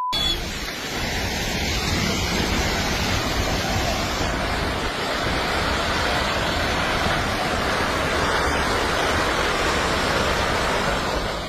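Landslide, a mass of rock and mud on the move, making a continuous rushing noise like a raging river.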